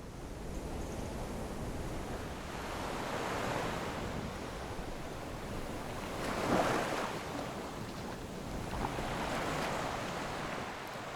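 Wind and water noise: a steady rushing haze with no distinct events, swelling louder about six and a half seconds in.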